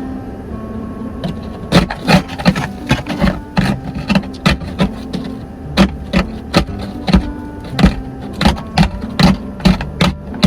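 Hard, frozen-over ice being chipped and knocked off a car, possibly with an ice scraper: a run of sharp, irregular knocks, about two to three a second, starting about two seconds in. Background music plays throughout.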